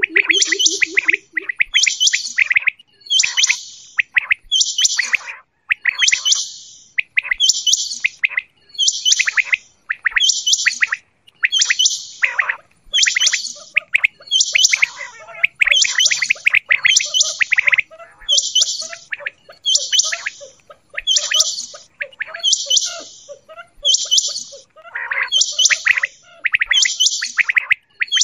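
Quail calling over and over, a high chirping call repeated about once a second. A low pulsing tone sounds under the first call or two.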